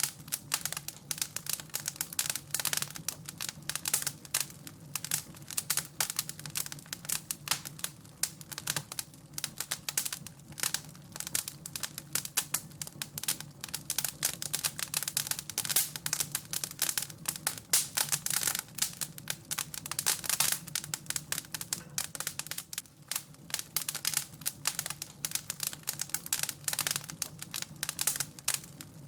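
Wood fire crackling: dense, irregular pops and snaps throughout, over a steady low hum.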